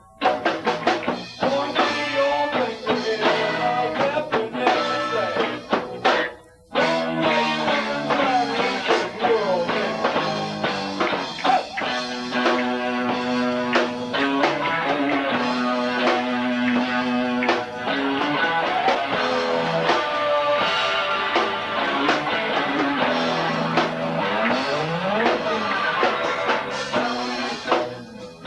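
Live rock trio playing an instrumental passage: electric guitar over bass guitar and drum kit, with held and sliding guitar notes. The music drops out briefly about six and a half seconds in, then carries on.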